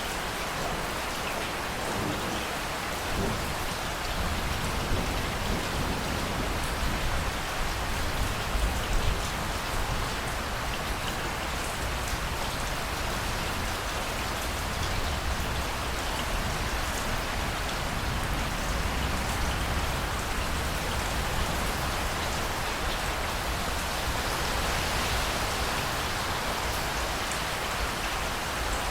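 Steady rain falling in a thunderstorm, with a low rumble of thunder swelling for a few seconds about five to nine seconds in.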